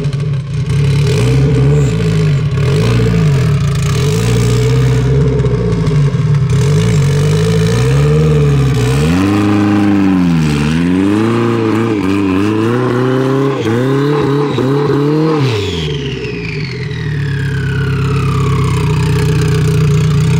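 Big-turbo SRT-4 2.4-litre four-cylinder in a front-wheel-drive minivan, revving up and down repeatedly as the front wheels spin in snow while the van is stuck. Near the end the revs drop back to a steady idle, and a high-pitched whine falls away over a few seconds.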